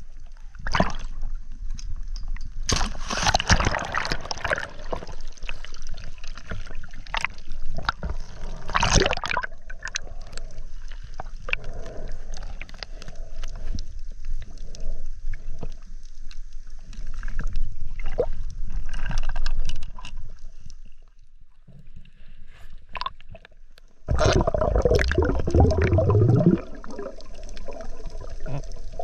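Water sloshing and gurgling, uneven, with scattered knocks and several louder surges; the loudest comes near the end, with a low sound that slides down in pitch.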